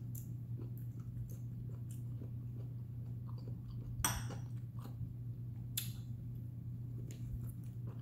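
A person chewing food close to the microphone with her mouth closed: soft wet clicks and smacks, with a sharper click about four seconds in and another near six seconds, over a steady low hum.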